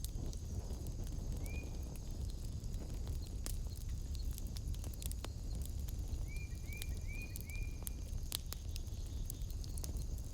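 Wood fire crackling in a fireplace: irregular sharp pops and snaps over a steady low rumble of the flames. An animal gives short high chirps, one about a second and a half in and four in quick succession past the middle.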